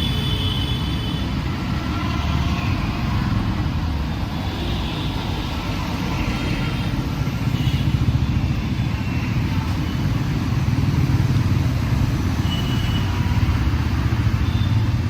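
Busy city road traffic: a steady low rumble of cars and motorbikes passing.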